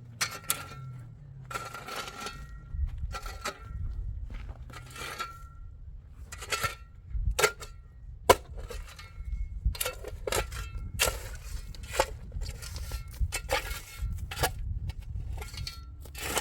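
A metal tool scraping and striking hard material over and over, at an irregular pace of about once a second, some strokes leaving a brief metallic ring.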